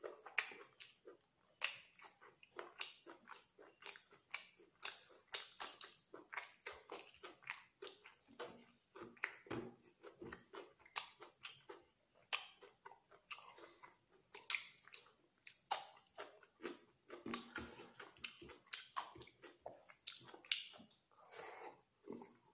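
Wet chewing and mouth smacks of someone eating chicken liver curry and rice by hand, with fingers squelching in the curry-soaked rice. The sound is a run of short, irregular smacks that never settles into a rhythm.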